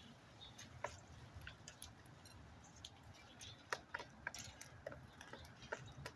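Irregular light ticks and taps, a few loud, of birds pecking at seed.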